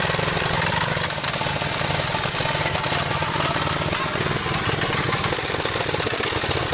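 Restored vintage bulldozer's engine running steadily with a rapid, even, rattling firing beat.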